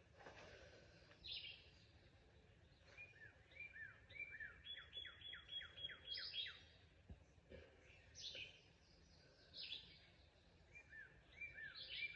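Faint songbird singing: quick series of short, repeated chirps, a run of about eight notes midway, then another series near the end.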